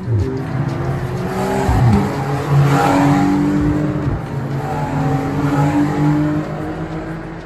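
Race car engines running hard on a racetrack, with the pitch dropping sharply about two seconds in and again about four seconds in.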